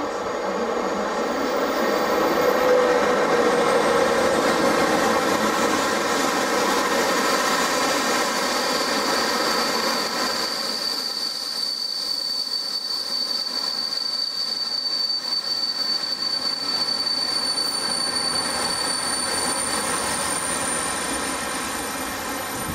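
Passenger train hauled by an electric locomotive arriving and slowing, locomotive and coaches rolling past with steady rail noise. Through much of the middle, a steady high-pitched squeal of the brakes as the train slows.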